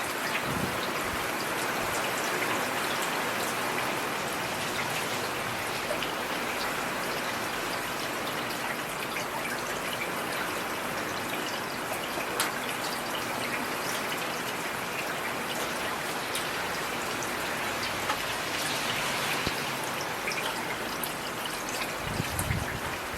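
Heavy rain falling steadily: a dense, even hiss of drops with the odd sharper drop striking close by. A brief low rumble comes in near the end.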